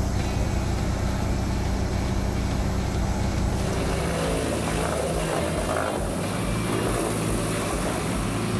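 Large wood chipper's engine running with a steady drone. About four seconds in it turns rougher and uneven as the machine takes on a load of wood.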